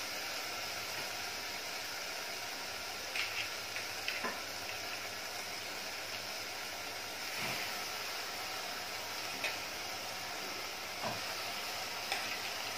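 Onion, tomato, potato and dried shrimp (sukat) frying in oil in a metal pot, a steady sizzle. A few brief knocks come through it.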